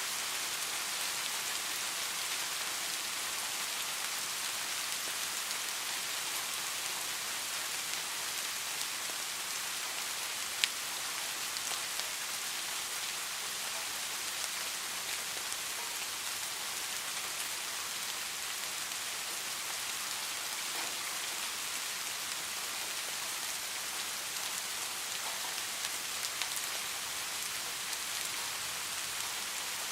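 Steady rain falling on a surface, a constant even hiss with occasional single drop ticks, one sharper than the rest about ten seconds in.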